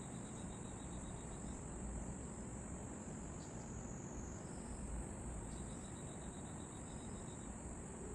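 Night insects calling: a continuous high-pitched trill, joined twice by a train of rapid, evenly spaced cricket chirps, over a steady low background rumble.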